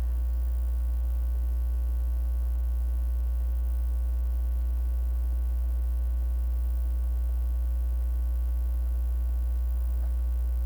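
Steady, loud low electrical hum, with a set of faint steady tones above it, unchanging throughout.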